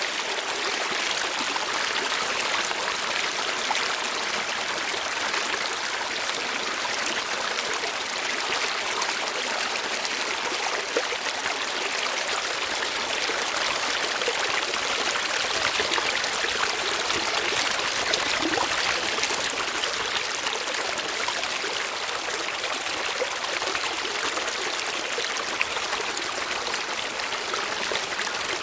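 Water flowing steadily, a continuous rushing and trickling with small splashes.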